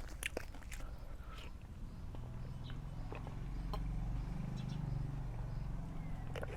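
A person chewing and biting food, with scattered small clicks and a low murmur in the background.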